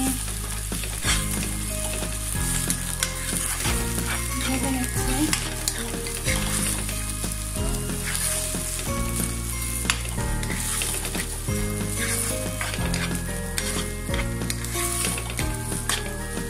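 Sliced onions with garlic and ginger paste frying in hot oil in a non-stick pan, a steady sizzle, with a wooden spatula stirring and scraping that adds frequent light clicks.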